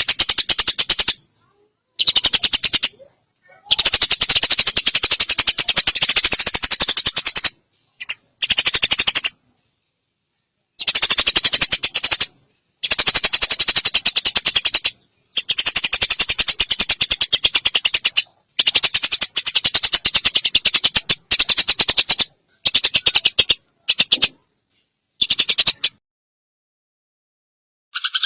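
Sparrows' rapid, harsh chattering rattle, the agitated fighting call, in bursts of one to four seconds that start and stop abruptly with dead silence between them. It falls silent a couple of seconds before the end.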